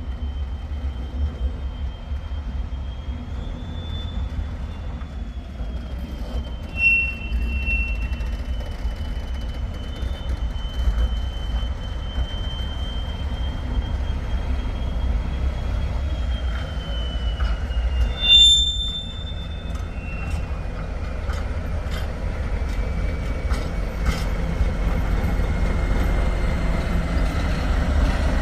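A train running on rails with a steady low rumble and a long, thin, high-pitched wheel squeal whose pitch slides lower in the second half. There is a brief sharp burst about eighteen seconds in and scattered clicks near the end.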